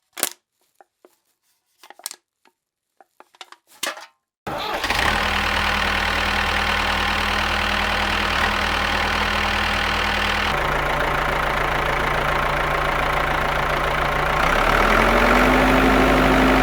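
A few small clicks and taps, then a motor starts about four and a half seconds in and runs with a steady hum. Its tone shifts twice, rising in pitch near the end.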